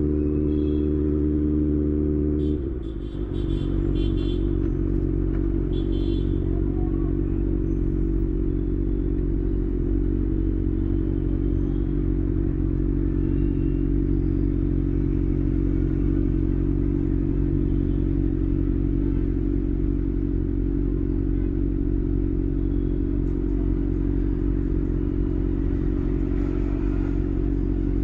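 A steady held tone gives way abruptly about two and a half seconds in to a Kawasaki ZX-6R's inline-four engine idling at an even, unchanging speed, with a few light clicks just after it takes over.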